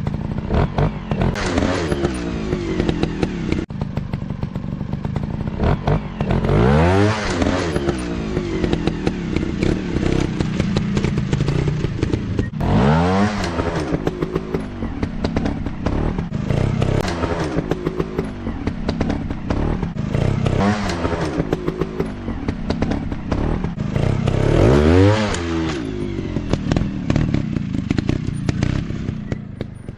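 Dirt bike engines running and revving, their pitch sweeping sharply up and down about three times, with clattering and scraping knocks throughout.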